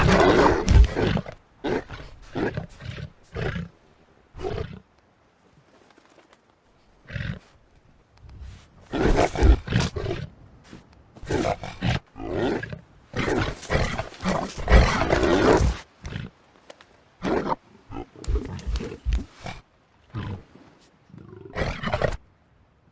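Elephant seals roaring and grunting in irregular harsh bursts of a second or two, with short quiet gaps between them, as the fighting bulls call at each other.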